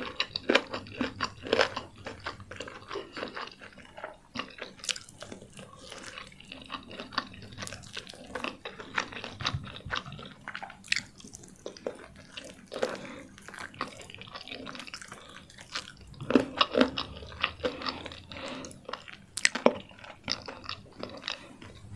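Close-miked chewing and crunching of crispy fried chicken: irregular crackling bites and clicks of the mouth, busiest near the end.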